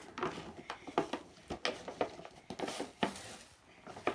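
Toy packaging being worked open by hand: irregular crinkles, rustles and small clicks as the box and its inner packing are pulled at.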